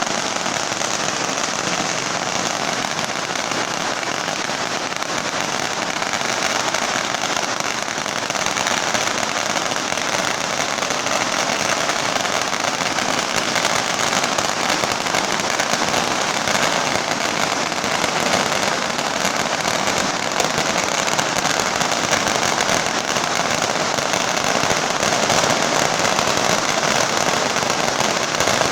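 A long carpet of strung firecrackers going off in one continuous, dense crackle, the rapid bangs running together without a break.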